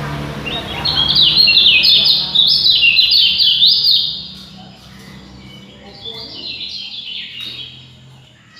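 Songbird singing a fast, dense string of rapidly repeated high sweeping notes for about three and a half seconds, then carrying on more softly.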